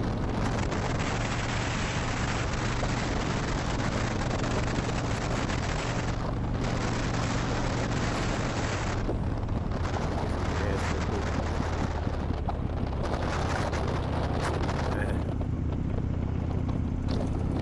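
Harley-Davidson Dyna Wide Glide's 103-cubic-inch V-twin running steadily at cruising speed through a Vance & Hines slip-on exhaust, with wind rushing over the helmet microphone. The engine note shifts near the end.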